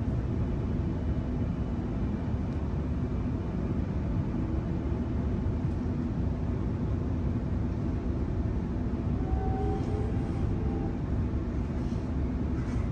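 Sydney Trains Millennium (M set) electric train running along the track, a steady rumble heard from inside the passenger carriage. A faint brief whine rises about ten seconds in.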